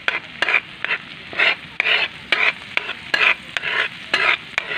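Garlic and chili frying in melted butter in a pan, sizzling steadily while being stirred, the utensil scraping the pan about twice a second.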